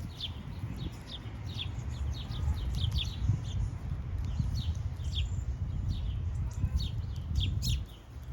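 Small birds chirping: many short, quick down-slurred chirps, scattered irregularly, over a steady low rumble.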